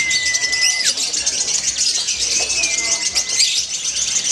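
Lovebirds chattering in a dense, unbroken stream of rapid high-pitched chirps. Two long, steady whistled notes sound over it: one at the start and one in the middle.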